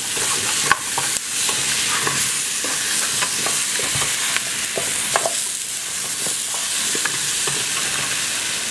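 Pumpkin cubes frying in oil in a pot, sizzling steadily while a wooden spoon stirs them, with scattered light knocks and scrapes of the spoon against the pot.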